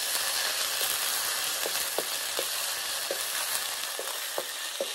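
Crushed garlic and spices frying in hot oil in a metal kadai, sizzling steadily while a steel ladle stirs them, with short clinks of the ladle against the pan now and then.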